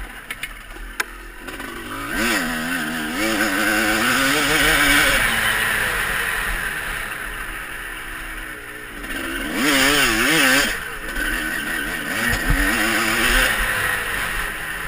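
Motocross bikes riding the track, their engines revving up and down in quick wavering pulses of throttle. They are loudest a couple of seconds in and again around ten seconds in, with a few sharp clicks in the first second.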